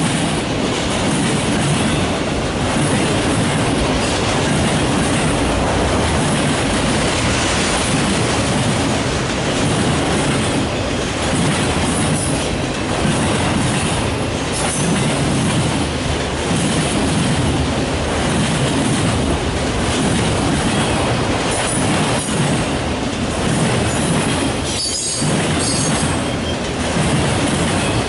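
Freight train of enclosed autorack cars passing at trackside: the loud, steady sound of steel wheels rolling over the rails, car after car.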